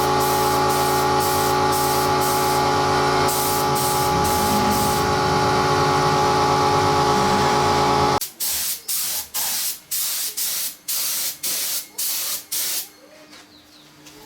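A machine runs steadily under rhythmic spraying hiss, then cuts off suddenly about eight seconds in. About ten short sprays of hissing air follow, roughly two a second, before it falls quiet near the end.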